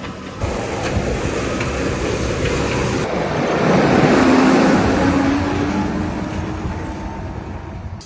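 JCB 4220 Fastrac tractor engine running as the tractor drives by. It grows louder to a peak about halfway through, with a steady engine tone, then fades as it moves away.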